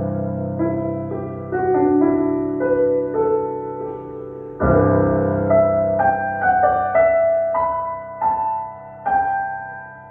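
Solo piano playing a slow passage: a deep sustained chord, another about four and a half seconds in, each followed by a melody of single notes moving above it.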